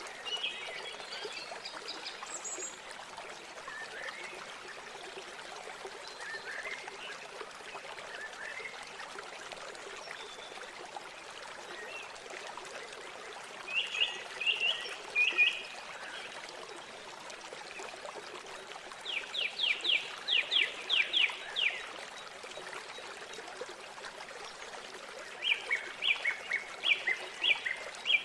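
River water rushing steadily, with birds calling over it. A few short calls come about halfway through, a rapid run of about ten quick notes a little later, and another fast run near the end.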